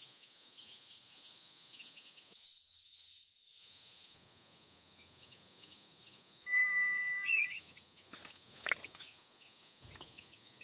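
Insects chirring steadily in a high, even drone. A short whistled call rises at its end about two-thirds of the way through, and a sharp click comes near the end.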